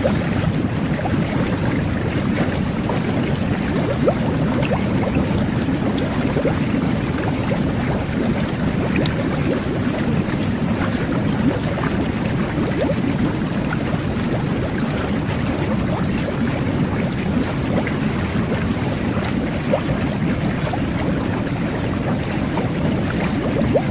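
Whirlpool jet bath running: water jets churning the bath water into a steady low rumble of bubbling, with small pops scattered through it.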